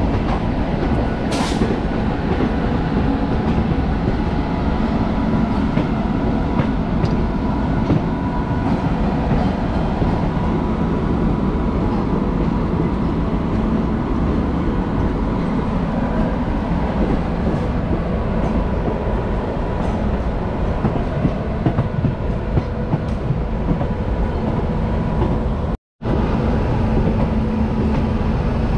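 A passenger train coach running on the rails, heard from its open doorway: a steady rumble of wheels on track. A single sharp click comes about a second and a half in, and the sound drops out for a moment near the end.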